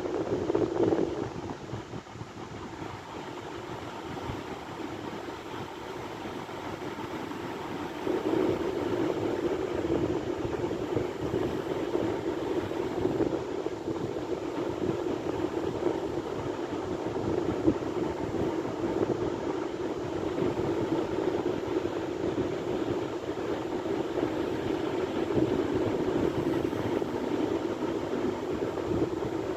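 Sea waves washing in, a continuous rushing surge that dips near the start and swells up again about eight seconds in.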